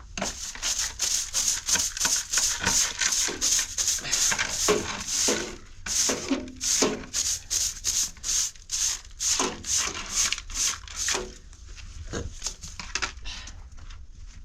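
Brisk rhythmic scrubbing strokes, about three a second, which weaken and thin out near the end.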